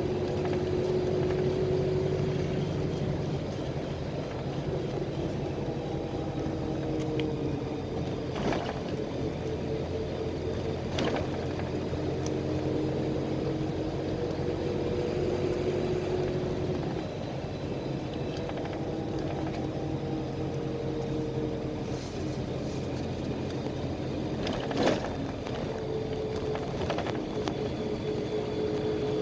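PAZ-320405-04 Vector Next bus heard from inside the cabin while driving: steady engine hum and road noise, the engine note shifting up and down a few times. Occasional short knocks and rattles from the body, the loudest about 25 seconds in.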